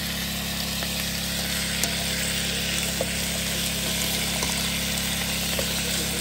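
Chopped rabbit meat sizzling steadily as it stir-fries in a pan, with a few faint clicks of a plastic spoon against the pan as it is stirred.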